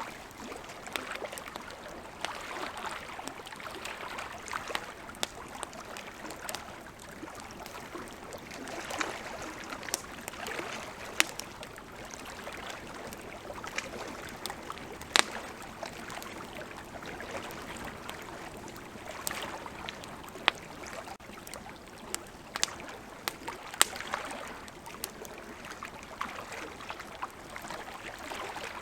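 Wood campfire crackling, with sharp irregular pops, over the steady wash of flowing river water.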